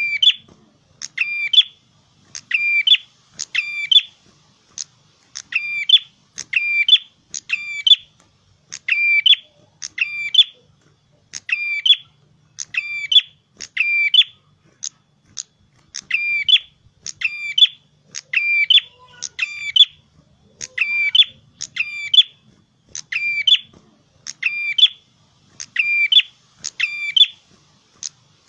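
A prenjak kepala merah, a small songbird, calling persistently, in full 'gacor' voice: short, sharp, high-pitched chirping phrases repeated over and over, about once or twice a second, without a break.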